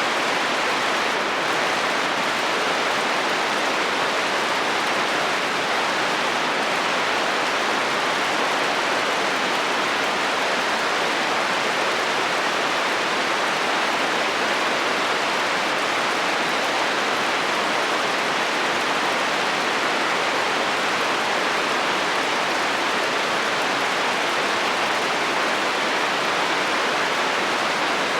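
Steady heavy rain falling on a metal roof, an even hiss of countless drops with no thunder in it.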